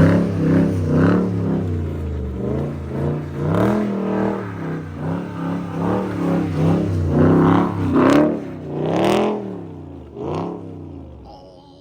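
Dodge Scat Pack's 6.4-litre HEMI V8 revving up and down over and over, the pitch rising and falling every second or so, dying away near the end.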